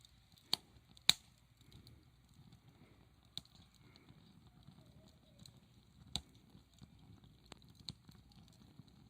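Small wood fire burning with a soft low rush and scattered sharp pops from the burning wood: two loud pops in the first second or so, then a few more spread out.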